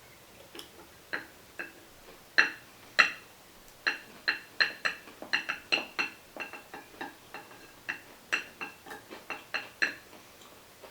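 Repeated light clinks of an eating utensil against a dish, each ringing briefly at the same few pitches, about two dozen irregular taps coming thick from about two seconds in.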